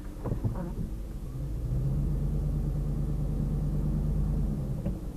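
Pickup truck engine heard from inside the cab, running with a low steady hum. It gets louder about two seconds in, holds a steady low note, then drops back near the end.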